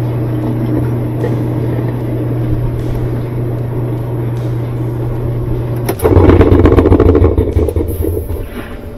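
Old-style Whirlpool top-load washer spinning with a steady motor hum. About six seconds in, the hum cuts off and a loud, rapid rattling clatter follows for about two seconds, then fades: the dreadful end-of-spin noise of a loose tub, which the repairman puts down to sheared ears on the spin tube stripping the drive block.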